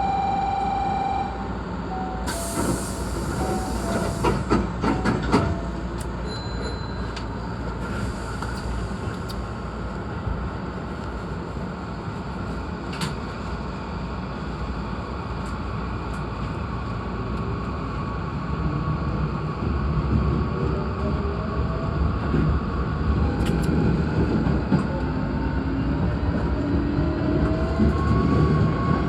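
Hankyu 8300-series electric train, heard from its leading car as it gets under way. A steady tone ends just over a second in and a short burst of air hiss follows about two seconds in. The run continues with steady wheel and rail noise, and the traction motors whine ever higher in pitch as the train gathers speed.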